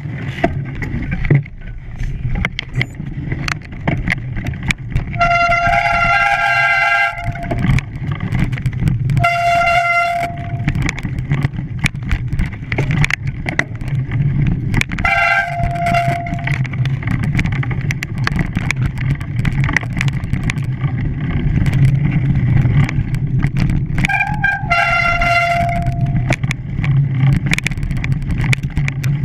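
A vehicle horn sounds four times, each blast lasting one to two seconds, over a steady low engine rumble.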